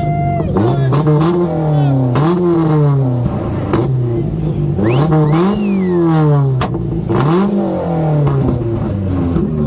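Car engine revved repeatedly, its pitch climbing and falling back about five times, with clicks and crowd noise around it. A steady held tone, like a horn, cuts off about half a second in.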